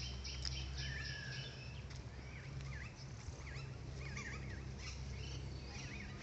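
Small birds chirping and calling repeatedly in quick, sweeping notes, over a low steady hum.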